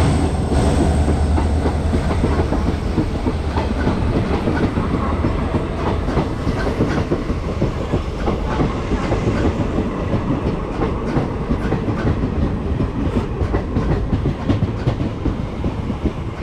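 Passenger train running on the track: a steady heavy rumble with rapid clicking and clattering of the wheels over the rails.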